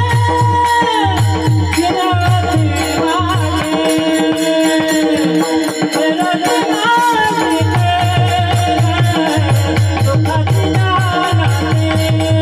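Marathi kirtan music: a devotional tune with a wavering melody line, over a steady drum beat and jingling hand cymbals.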